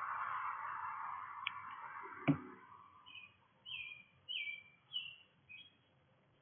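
A bird calling a quick series of about six short, downward-slurred chirps in the second half, at a feeder. It comes after a sharp knock about two seconds in and a rush of noise that fades away over the first couple of seconds.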